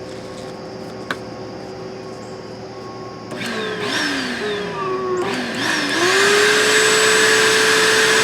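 Vacuum cleaner motor growing louder about three seconds in, its pitch sliding down and back up several times, then settling into a steady loud whine from about six seconds in.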